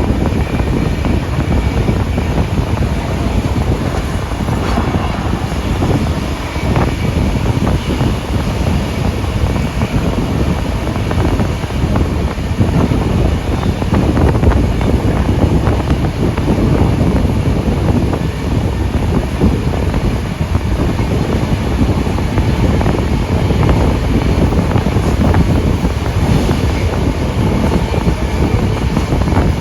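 Steam-hauled passenger train running at speed, heard from onboard: a loud, steady rumble of carriages on the rails with wind rushing over the microphone.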